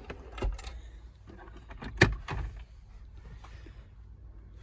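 A few clicks and knocks of car interior parts being handled, with one sharp click about two seconds in.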